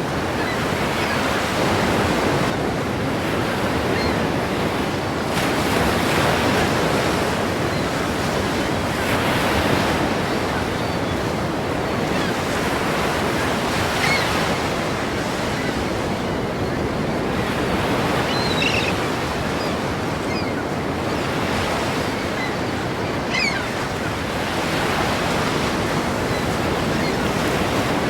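Ocean waves breaking in a continuous rushing surf, swelling louder every few seconds as each wave crashes.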